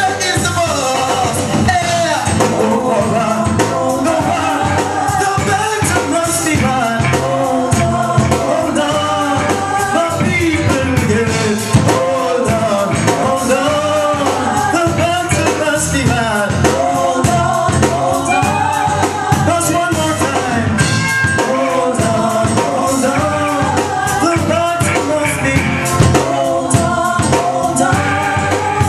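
Live reggae band playing with a voice singing over it and a steady drum beat.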